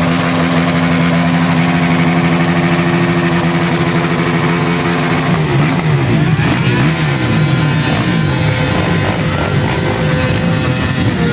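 Quad bike engines revving hard: held at steady high revs for about five seconds, then revved up and down repeatedly.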